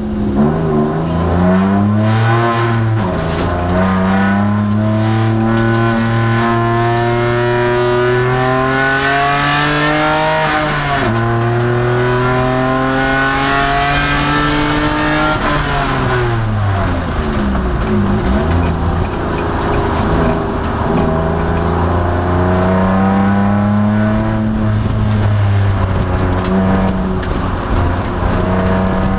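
Nissan Maxima race car's V6 engine accelerating hard through the gears, with upshifts about 3 and 11 seconds in. The revs fall away from about 15 to 18 seconds in, then it accelerates again and holds a steady pace near the end.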